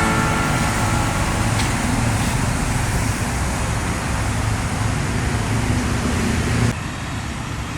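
Truck engine running amid road traffic noise, steady until it drops abruptly near the end.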